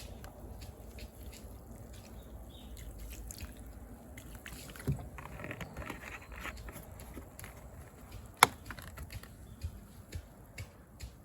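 Campfire crackling: irregular small snaps and ticks throughout, with one sharp loud pop about eight seconds in.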